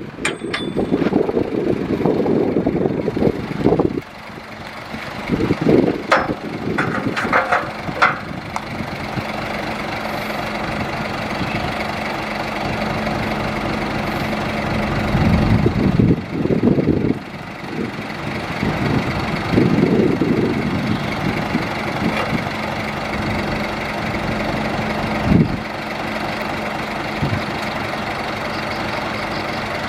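A heavy earthmoving machine's diesel engine running steadily and swelling in loudness several times, with a few sharp knocks about six to eight seconds in.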